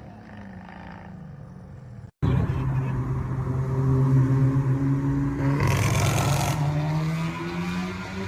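Turbocharged car engine held at steady revs on anti-lag. After a quieter start it cuts in loud; about two-thirds of the way through its pitch steps up with a short burst of hiss.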